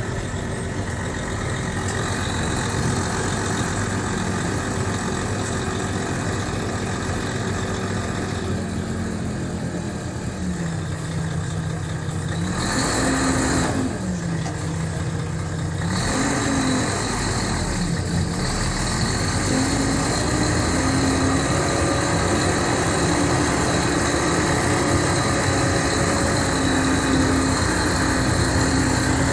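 Diesel engine of a Mercedes-Benz O500RSD coach running continuously. Its speed falls and rises a few times midway, then holds steadier at a higher pitch near the end.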